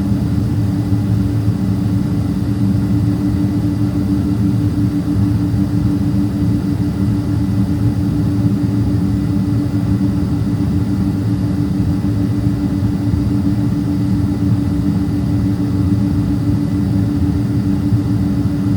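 Inside the cabin of a Boeing 767-300ER, the jet's engines run at idle before the takeoff spool-up: a steady low hum with one constant drone tone held throughout.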